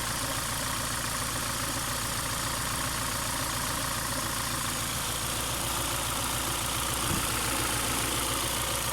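Engine idling steadily with an even low pulsing, an engine that shakes at idle.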